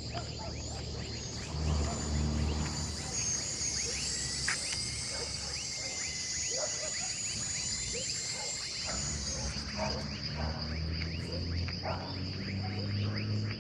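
Insect chorus: a steady high-pitched buzz with many short chirps over it, and a low hum that comes and goes.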